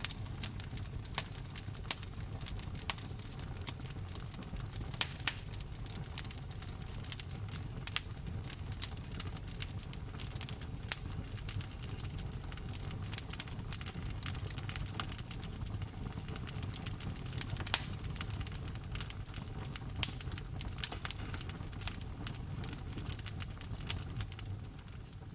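Wood fire crackling: frequent sharp pops and snaps of burning wood over a low steady rumble of flame, with a handful of louder pops. The sound fades out at the very end.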